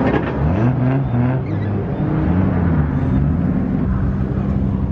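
Turbocharged RB30 inline-six engine running, its pitch rising and falling as it is revved in the first few seconds, then settling to a steady note about four seconds in.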